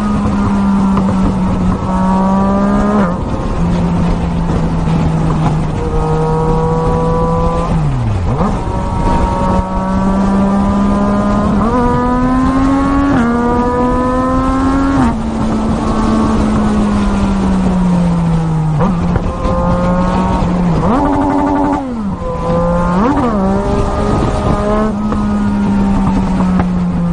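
Racing motorcycle engine running hard at high revs, its note holding, then stepping up and down several times, with a few quick sharp dips and recoveries.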